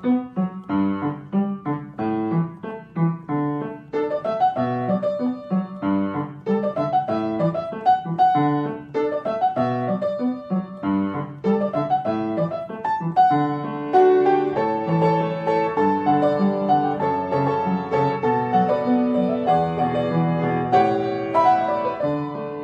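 Piano music: a quick run of struck notes and chords that continues without a break.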